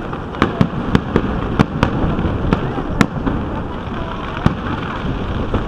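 Fireworks going off: a dozen or so sharp bangs and pops at irregular intervals over a continuous low rumble of more distant bursts.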